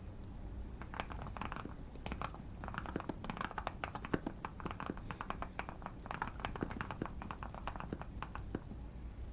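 Typing on a Keychron Q1 custom mechanical keyboard, modded with tape and PE foam and fitted with Fierce Girl switches, in irregular runs of keystrokes with short pauses between them. Light fire crackling and a steady low hum sit underneath.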